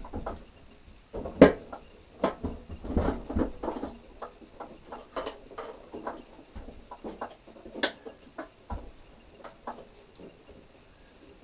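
Irregular knocks, clicks and rattles of parts and tools being handled, the loudest a sharp knock about a second and a half in.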